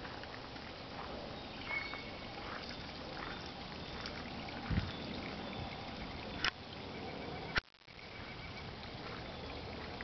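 Outdoor ambience: a steady hiss with a few faint, short bird calls. Two sharp clicks, about six and a half and seven and a half seconds in, the second followed by a brief dropout.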